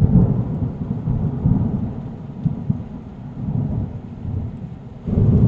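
Deep low rumble like thunder, loudest at the start and swelling again near the end.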